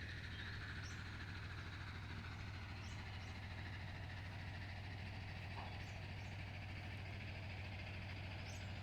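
Faint, steady running of a distant tractor engine, with a few brief high bird chirps.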